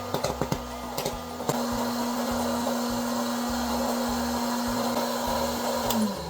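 Hot-air popcorn popper running with a steady fan hum while kernels pop in sharp clicks, most of them in the first second and a half. Near the end it is switched off and the hum drops in pitch as the fan winds down.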